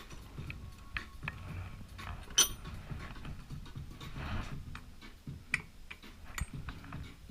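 Metal sockets and tools clinking and clattering as they are handled, with scattered light clicks and one sharp ringing clink about two and a half seconds in.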